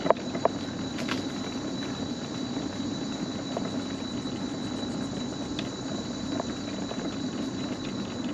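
Electric mobility scooter running along a wooden boardwalk: a steady motor hum with a thin high whine, and a couple of sharp clicks just after the start.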